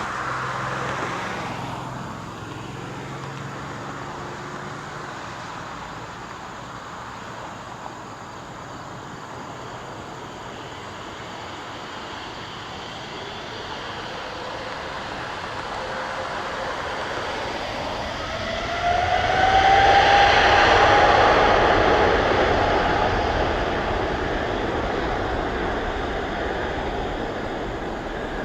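Boeing 777-200LR's GE90 turbofan engines at takeoff thrust: a steady rush that swells to its loudest about two-thirds of the way in, with a whine rising in pitch and then held as the jet passes, then slowly fades.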